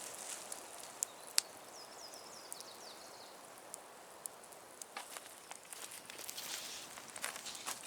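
Rustling and scattered small cracks in dry leaves and twigs, as of someone moving about on forest ground. A bird gives a quick run of falling notes about two and a half seconds in.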